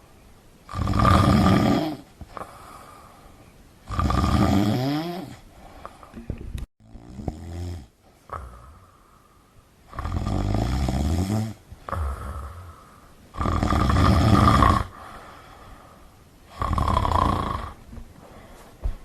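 A person snoring: about six loud snores, each a second or so long, roughly every three seconds, with quieter breaths between.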